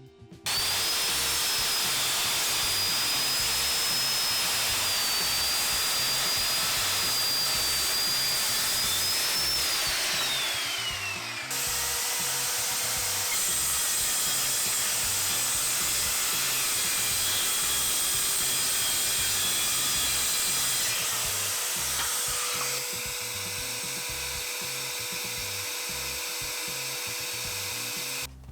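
Electric circular saws running and cutting through a hardwood glue-up of oak, mahogany and ash, in three back-to-back takes that change abruptly about 11 and 23 seconds in. The first take carries a high motor whine that falls away near its end as the blade winds down.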